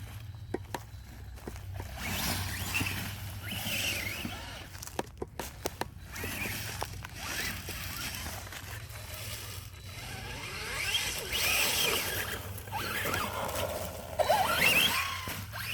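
Electric RC monster truck driving on dirt: its motor whine rises and falls in pitch as it speeds up and slows, over the hiss of its tyres. A run of sharp clicks comes first, and the loudest spurts are near the end.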